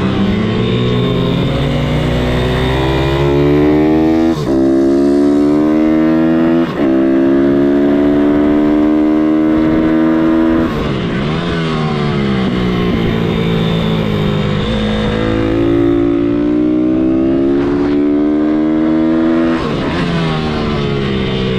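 MRF 160-R SM supermoto pitbike's single-cylinder four-stroke engine revving up hard through the gears, with short breaks at each upshift. It closes off and drops in pitch about halfway through, then accelerates and upshifts again before backing off near the end.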